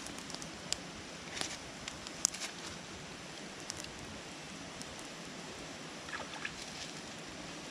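Steady rushing of a flowing river, with a few scattered small clicks and taps over it.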